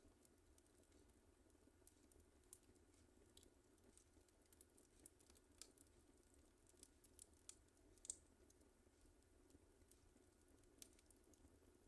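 Fire in a fireplace crackling faintly, with irregular small snaps and pops scattered through, the sharpest one about eight seconds in.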